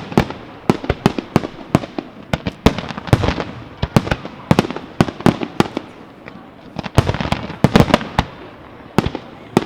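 Fireworks display: a rapid, irregular string of sharp shell bangs, bunched in clusters with a faint crackle between them, easing off briefly past the middle before another dense cluster.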